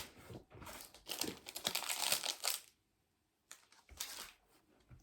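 Chocolate bar wrapper crinkling and tearing as it is opened: rustling for about two and a half seconds, a brief pause, then a shorter rustle.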